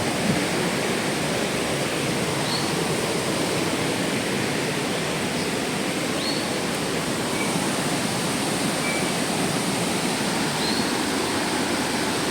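Waterfall rushing in a steady, unbroken roar of water, with a few faint short high chirps over it.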